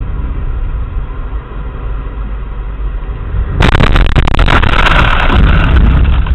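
Dashcam recording of a car driving with steady road rumble, then about three and a half seconds in a sudden loud crash with crackling and scraping noise that lasts a few seconds.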